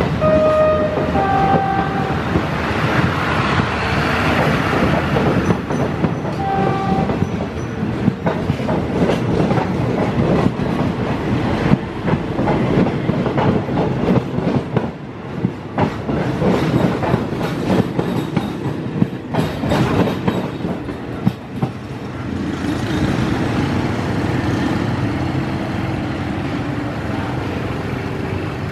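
Passenger coaches of a moving train rolling past close by, wheels clattering and knocking over the rails. There are short steady tones in the first couple of seconds and again about seven seconds in. From about three-quarters of the way through, the clatter gives way to a smoother, slightly quieter rumble as the last coaches pass.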